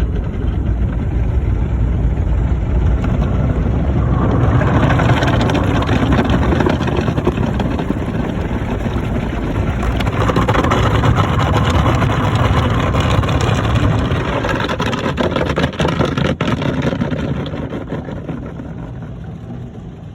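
Automatic car wash working over a car: a loud rushing, spattering wash that swells about four seconds in and dies down over the last few seconds.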